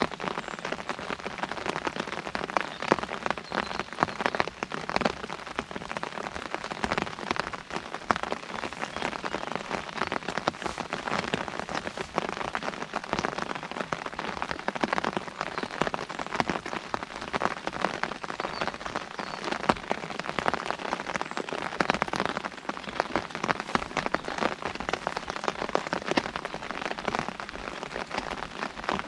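Steady rain pattering on an umbrella overhead: a dense, uneven run of drop taps over a constant hiss of falling rain.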